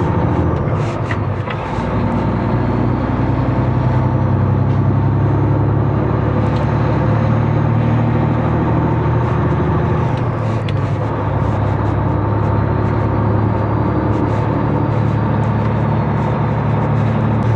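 Semi-truck's diesel engine running steadily under way, heard from inside the cab, with a faint high whine that slowly rises and falls and a few light clicks and rattles.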